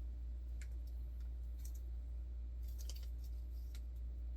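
Small accessory tools and plastic packaging from a 3D printer kit being handled: a few scattered light clicks and ticks over a steady low hum.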